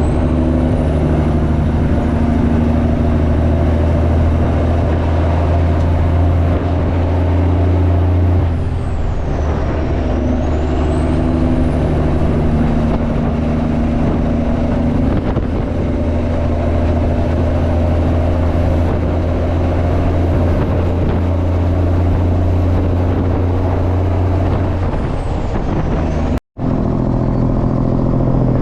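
Straight-piped semi truck's diesel engine pulling down the road, loud and steady, with a high whine above it. Twice, about a third of the way in and again near the end, the engine note shifts and the whine drops and climbs back as the driver changes gear. The sound cuts out for a split second just before the end.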